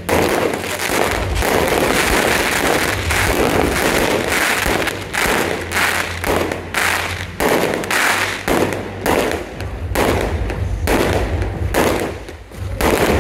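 Aerial fireworks bursting overhead in quick succession, a dense run of loud bangs with hardly a gap. The bangs ease off briefly near the end, then pick up again.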